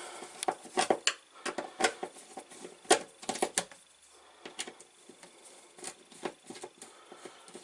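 Irregular clicks and knocks of hard objects being handled and moved about, many close together in the first few seconds and sparser after.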